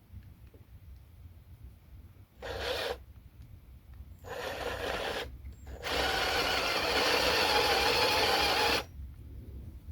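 Small electric drill running in three bursts, a short one, a longer one and then a loud one of about three seconds, as it drills into a top plate.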